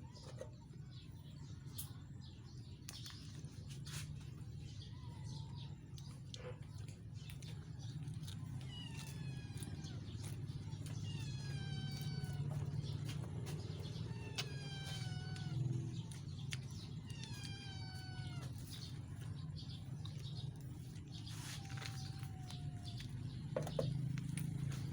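An animal calling about five times, each call about a second long and falling in pitch, over a steady low rumble and a few scattered clicks.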